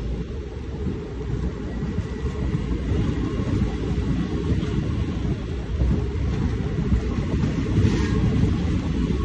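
Train pulling out of the station: a steady low rumble of the locomotive and carriages, gradually growing louder, with a brief higher-pitched sound about eight seconds in.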